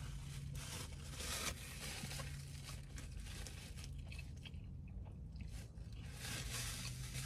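Close-up chewing and crunching of fast food in the mouth, in short irregular bursts over a low steady hum.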